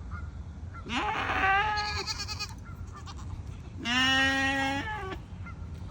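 Goat bleating twice, each call about a second long: the first starts about a second in and the second comes about four seconds in.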